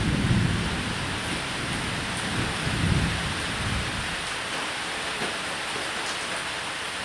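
Steady rain with rolls of thunder: a low rumble at the start and another swelling about three seconds in, over the constant hiss of the rain.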